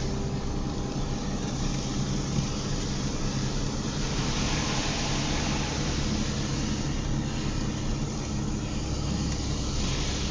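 Car driving in the rain, heard from inside the cabin: a steady engine and road hum under the hiss of tyres on a wet road, which swells for a few seconds midway and again near the end.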